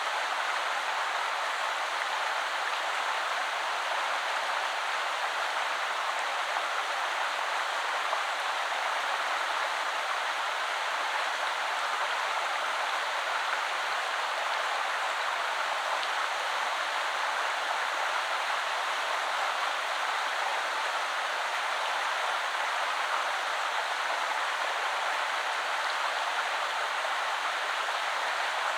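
Shallow woodland river flowing steadily over stones, a constant rushing and splashing hiss that stays even throughout.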